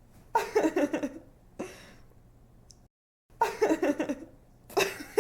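A young woman laughing in short, bright bursts of giggles, four bursts in all, with a moment of dead silence about three seconds in.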